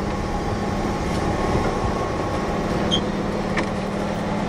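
Interior sound of a Keihan 1000 series electric train car: a steady hum and rumble with the air conditioning running, and a faint click about three seconds in.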